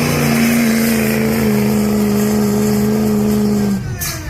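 Diesel pickup truck engine held at full throttle while pulling a weighted sled, its pitch sagging a little in steps as the load builds. About four seconds in, the engine falls off, with a short sharp crack as it lets go.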